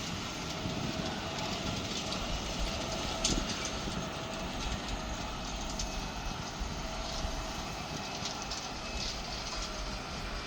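Steady, distant rumbling noise of a Boeing 777's jet engines, with a short click about three seconds in.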